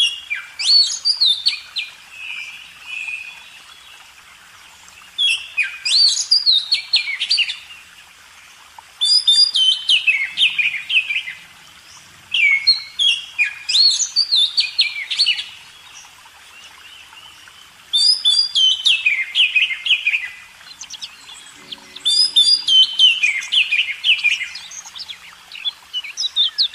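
A songbird singing loud phrases of quick rising and falling notes, each about two seconds long, repeated with pauses of a few seconds between them.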